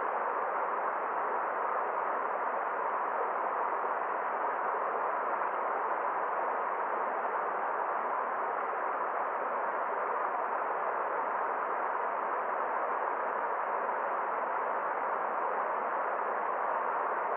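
Forest stream flowing: an even, unbroken rush of water that holds steady throughout.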